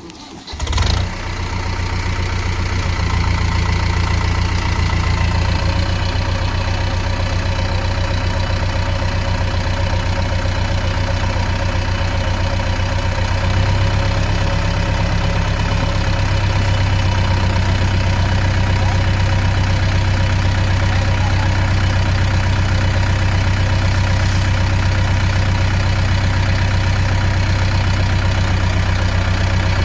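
Tractor's diesel engine running steadily with a low, even beat. It comes in suddenly about a second in and gets a little louder around halfway.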